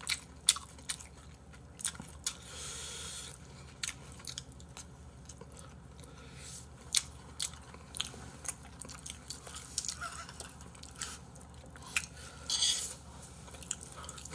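Close-miked eating sounds: chewing and wet mouth noises with scattered sharp clicks. A soft breathy hiss comes a couple of seconds in and again near the end.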